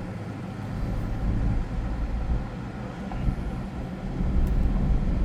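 2006 Chevrolet Trailblazer heard from inside the cabin as it sets off on a drive: a steady low engine and road rumble that grows louder about four seconds in.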